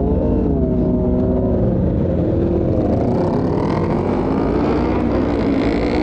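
Sport bike engine running under way, its revs climbing near the start, easing off, then rising again partway through, over a steady low rumble.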